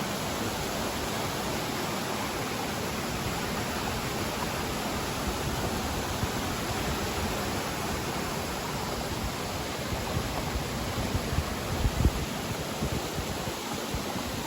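Steady rush of flowing water, with a few low thumps near the end.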